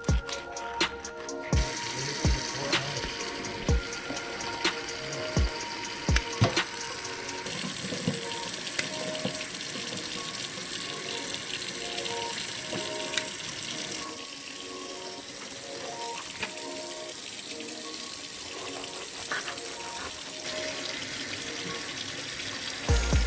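Water running steadily from a tap into a sink, starting about a second and a half in, while small yellow perch are being cleaned. A few sharp knocks sound in the first several seconds.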